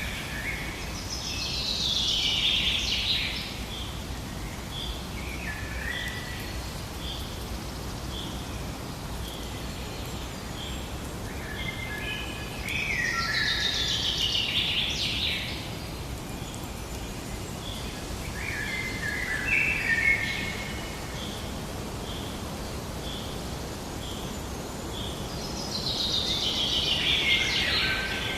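Birds singing: a rich song phrase that cascades downward repeats about every twelve seconds, three times. Behind it a short high chirp repeats steadily, just over once a second, over a steady low outdoor hiss.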